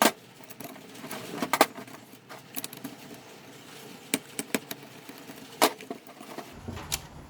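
Scattered sharp clicks and knocks of plastic fusebox parts and wiring terminals being handled and pried apart, over a faint steady patter.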